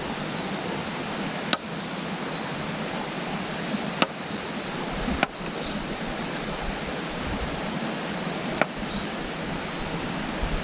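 Steady rush of flowing water, with four brief sharp clicks spread through it.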